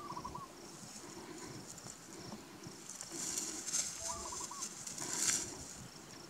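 A bird calls twice, about four seconds apart, each call a short quick run of four or five notes. Rustling in dry grass comes between about three and five and a half seconds in.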